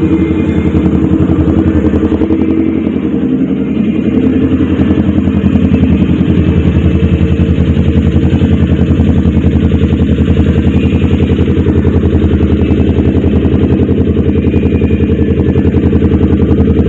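Kawasaki Ninja 250 parallel-twin engine running loudly through an aftermarket racing exhaust, with a steady, even, rapid exhaust pulse.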